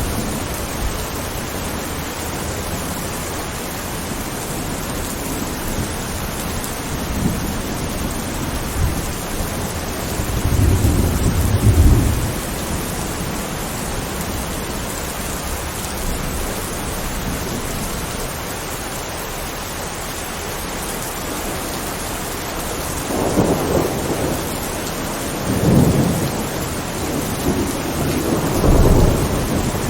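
Steady heavy rain with rolls of thunder: one long low rumble about a third of the way in, then several more close together near the end.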